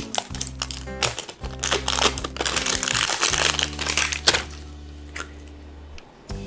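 Plastic wrapping crinkling as it is pulled off a lotion container, over background music; the crinkling stops about four and a half seconds in.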